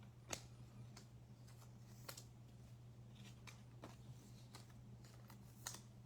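Near silence: a steady low hum under a few faint ticks and slides of trading cards being handled.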